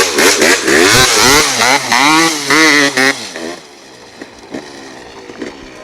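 KTM 250cc motocross bike engine being revved in repeated throttle blips, its pitch rising and falling, then dropping back to a quieter steady idle a little over three seconds in.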